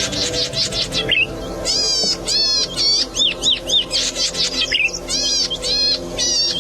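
Cici padi singing: rapid high-pitched chirps and twittering phrases repeated in quick bursts with short gaps.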